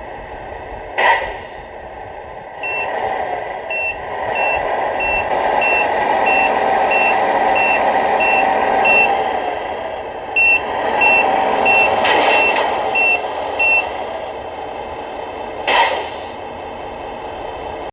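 Electronic sound unit of a Tamiya 1:14 Mercedes-Benz Actros RC semi truck playing a diesel engine sound that picks up about two and a half seconds in, with a reversing alarm beeping about one and a half times a second in two runs as the truck backs up. Short sharp hisses, like air-brake releases, come about a second in and near the end.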